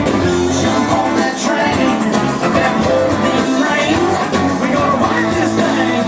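A live band playing a rock-and-roll dance number, with electric guitar and a singing voice.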